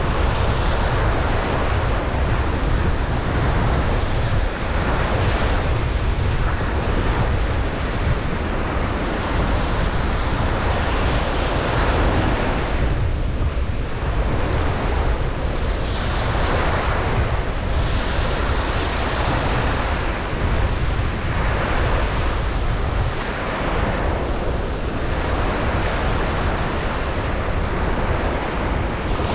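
Ocean surf breaking on a beach in a steady wash, swelling and ebbing every second or two, with a heavy low rumble that may be wind on the microphone.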